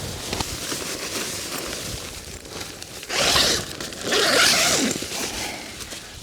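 A zipper pulled in two quick runs, one about three seconds in and a longer one just after.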